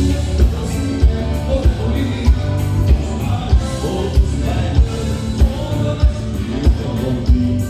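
Live gaúcho dance-band music with singing over a steady low beat of about one and a half thumps a second.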